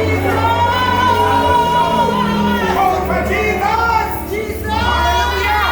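Gospel worship music with a steady sustained bass under sung voices holding long notes.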